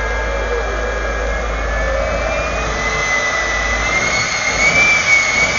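Jet engine of a Kenworth jet truck running with a high whine that rises slowly in pitch from about halfway through, getting louder near the end as it spools up.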